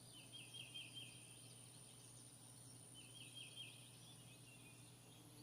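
Faint bird song: a short phrase of about five quick notes, sung twice, over a steady high-pitched whine and a low hum.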